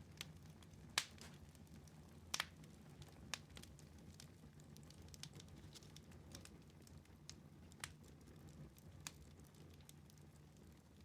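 Wood fire crackling in a fireplace: faint, scattered pops and snaps, the loudest about a second in and again near two and a half seconds, over a low steady rumble.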